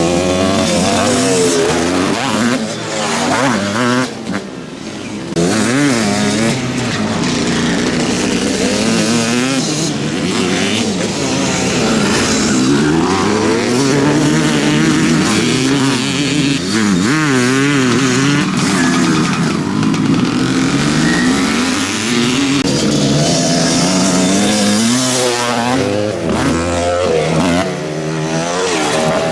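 Several motocross motorcycles racing, their engines revving up and dropping back over and over as the bikes accelerate, shift and brake, the notes of more than one bike overlapping.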